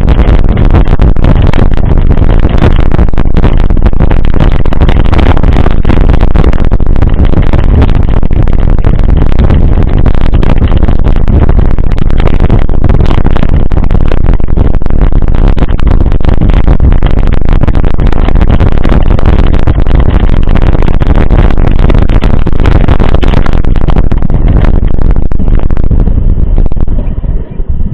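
Loud, clipping wind buffeting and rumble on the microphone of a moving camera, a steady rough roar that falls away near the end.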